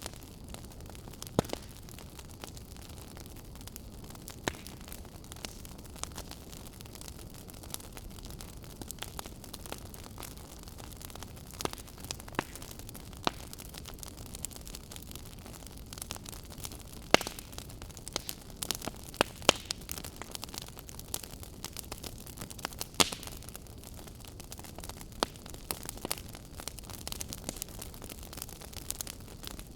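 Fire burning in a fireplace, crackling: irregular sharp pops and snaps, a few of them much louder, over a steady low hiss.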